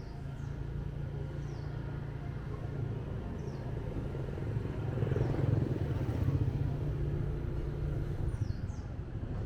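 Motorbike engine running steadily while riding, with a louder swell about halfway through.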